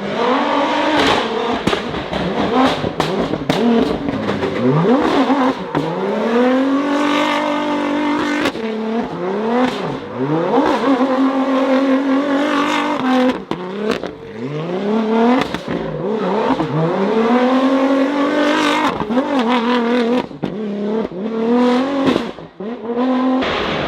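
Rally car engines revving hard and accelerating, the pitch climbing and dropping back again and again as they shift through the gears, with sharp cracks between the climbs.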